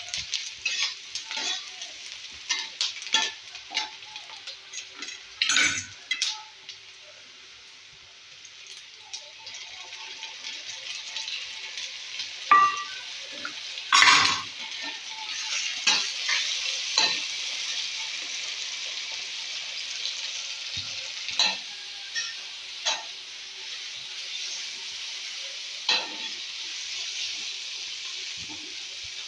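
Onions and green chillies sizzling in hot oil in a steel kadhai, with a steel spatula scraping and knocking against the pan as they are stirred. About halfway, chopped tomatoes go in with a clatter, and the sizzle grows louder after them.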